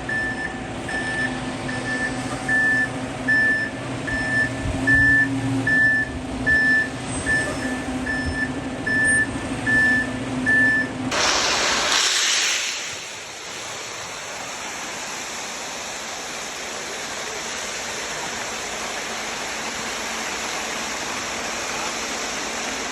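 Concrete mixer truck backing up, its reversing alarm beeping steadily about three times every two seconds over the running engine. About halfway through this cuts to a steady rushing noise.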